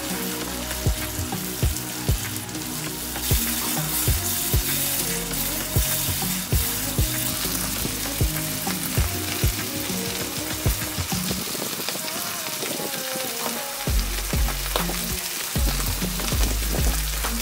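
Chopped tomatoes frying in hot oil in a pot, a steady sizzle with a spoon stirring through them, under background music with a steady beat.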